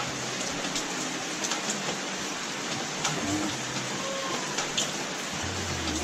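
Heavy rain falling, a steady hiss, with a few light clicks over it.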